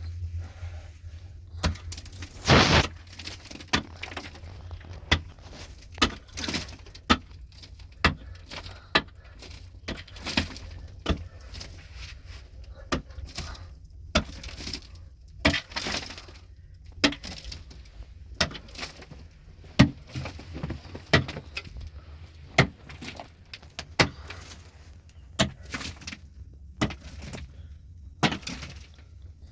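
Stones knocking and clinking against each other in an irregular run of sharp strikes, about one or two a second, some much louder, as stones are handled and set while building a fireplace.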